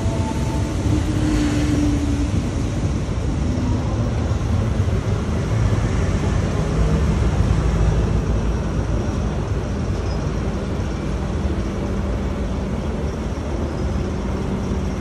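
Passenger train running on the rails, heard from inside the carriage through an open window: a steady low rumble of wheels and running gear that eases slightly in the second half as the train slows almost to a stop.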